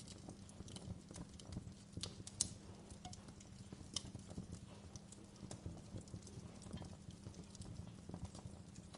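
Wood fire crackling in a fireplace: irregular sharp pops and snaps over a low steady rumble, with one louder pop about two and a half seconds in.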